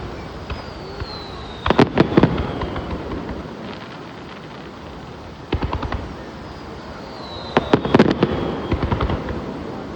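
Fireworks going off: a rapid cluster of sharp bangs and crackles about two seconds in and another about eight seconds in, with smaller volleys around five and a half and nine seconds. A thin falling whistle comes just before each big cluster.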